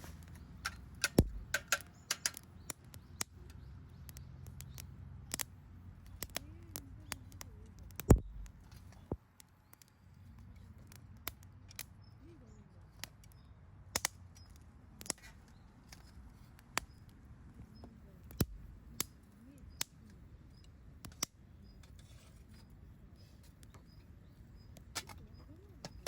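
Wood campfire crackling: irregular sharp pops and snaps over a low steady hiss, with the loudest pops about a second in and about eight seconds in.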